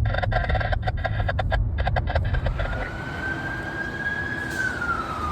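An emergency vehicle's siren wailing: a single tone that rises slowly, holds, and slides down near the end, over a steady low traffic rumble. The first two seconds or so hold a choppy, rapidly broken sound.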